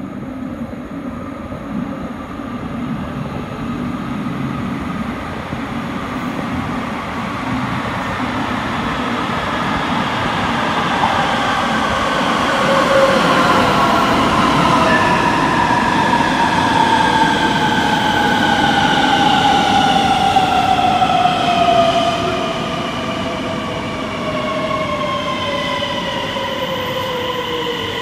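Two coupled Øresundståg electric multiple units, a DSB ET and an X31K, running into an underground station platform and braking to a stop. The rumble grows as the train approaches and is loudest as it passes, then eases off, while a whine of several tones falls steadily in pitch as the train slows.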